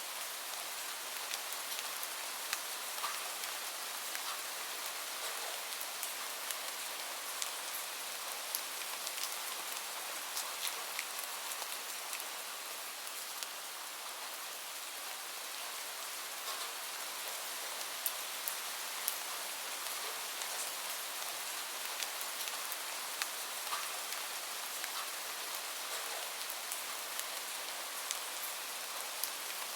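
Steady rain hiss with scattered sharp pops and clicks from a crackling wood fire mixed in.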